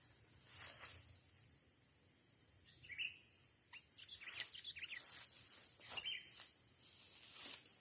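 Faint outdoor ambience: a steady high-pitched insect drone, with a few short bird chirps about 3, 4.5 and 6 seconds in and some faint clicks.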